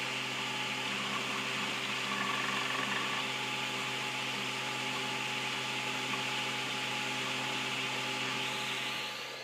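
Wanhao i3 3D printer running: a steady whir of fans with several steady motor tones underneath, dropping slightly in level near the end.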